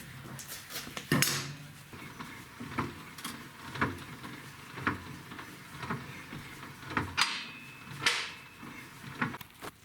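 A series of clinks and knocks from tools and parts being handled, coming roughly once a second, with a louder clatter about a second in.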